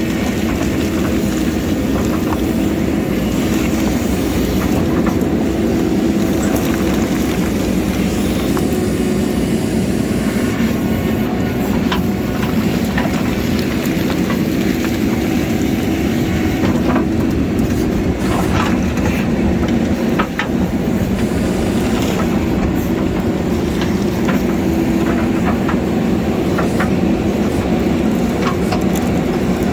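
JCB backhoe loader's diesel engine running steadily under load while it digs, with scattered sharp clanks and scrapes of the bucket working against rock.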